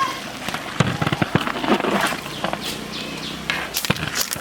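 Irregular sharp clicks and knocks, with faint voices in the background.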